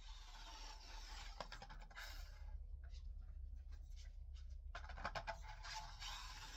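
Scratching and rubbing with scattered light clicks, over a low steady hum; there is a quieter spell of a second or two in the middle.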